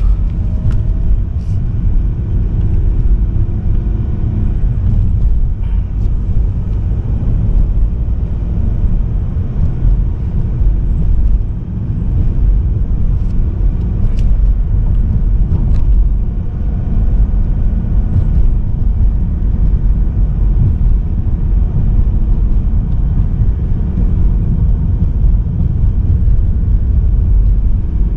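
Steady low rumble of a car on the move, mostly road and engine noise, with a few faint clicks.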